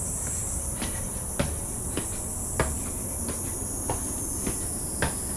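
A steady, high-pitched drone of insects in the forest, with short sharp taps in a walking rhythm, about one every half second to a second.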